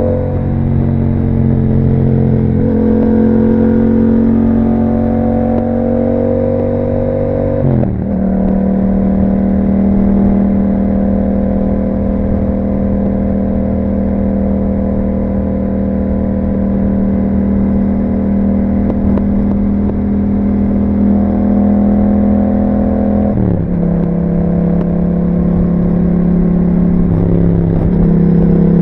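Yamaha MT-07 parallel-twin engine through an Akrapovic exhaust with dB killer, heard from the bike while riding. It pulls up gently, drops in pitch with an upshift about eight seconds in, runs steadily at cruising speed, then shifts up again with another drop in pitch near the end.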